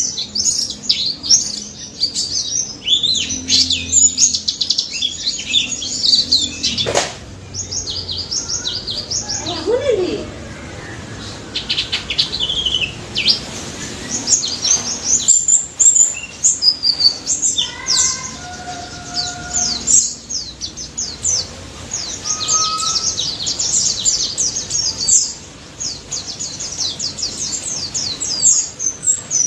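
Pleci daput white-eye singing a fast, dense run of high chirps and trilled notes, with a few lower, held whistled notes around the middle.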